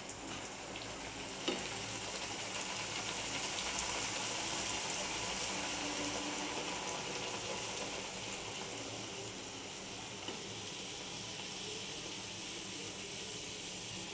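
Luchi sizzling steadily as they deep-fry in hot oil, with a light knock about a second and a half in.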